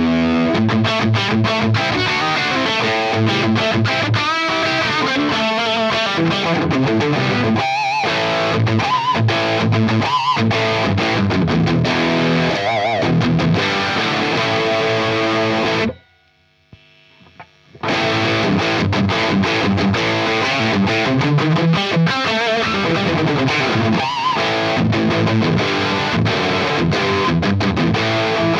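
Electric guitar played through an overdriven Fender Blues Junior IV 15-watt tube amp. The amp is captured through a reactive load and a 4x12 Vintage 30 cabinet impulse response, with no other processing. The guitar plays lead lines with vibrato on held notes, stops for about two seconds just past the middle, then carries on.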